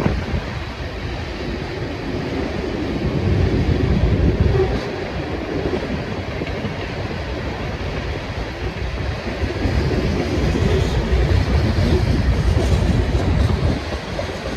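Freight train cars rolling past on the rails: steady wheel-on-rail noise whose level rises and falls.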